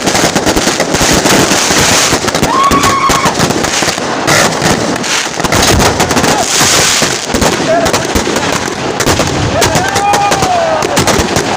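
Fireworks and firecrackers going off in quick, dense succession: a continuous crackle of sharp bangs, with a few brief whistles over it.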